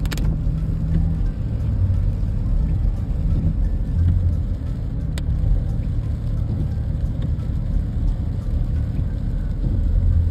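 Car driving through heavy rain: a steady, loud low rumble of road and engine noise with an even hiss over it. It starts suddenly at the beginning.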